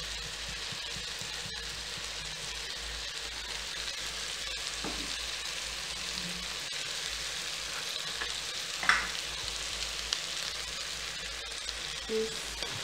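Chicken, tomatoes and onions frying in a pot, sizzling steadily. A single sharp knock comes about nine seconds in.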